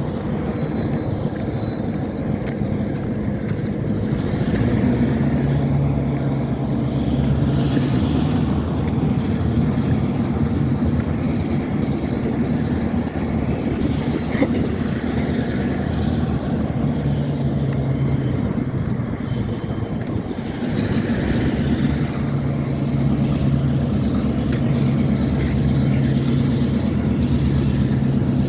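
EMD GP-series switcher locomotive's diesel engine running, a steady low drone that swells and eases several times as it works.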